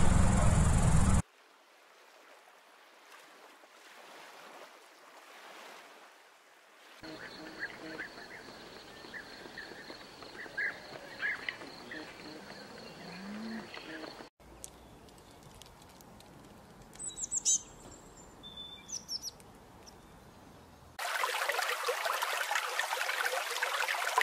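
A run of short outdoor clips. Turkeys gobble for about the first second. Then come quiet outdoor sounds with scattered short bird calls and a few high chirps. A steady rushing noise takes over about three seconds before the end.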